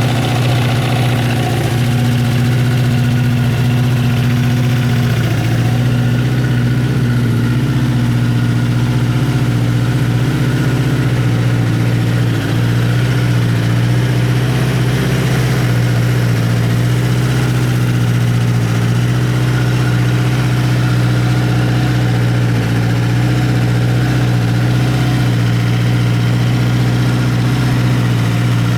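Honda CBX550F2 Integra's air-cooled inline-four engine idling steadily.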